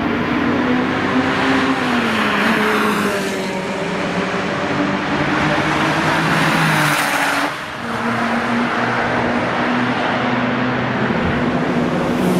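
Air-cooled flat-six engine of a 1971 Porsche 911 with a full straight-piped exhaust, driven on a race track. The note holds fairly steady, drops in pitch about two seconds in, and dips briefly halfway through.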